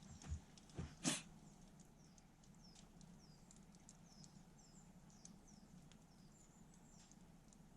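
Faint, thin, high bird calls: short downward-sliding notes repeated irregularly. A few knocks sound in the first second or so, and a low steady hum runs beneath.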